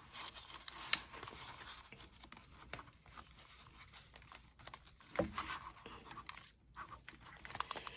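Paper rustling and crinkling as banknotes and paper envelopes are handled, with a sharp click about a second in and a soft knock a little after five seconds.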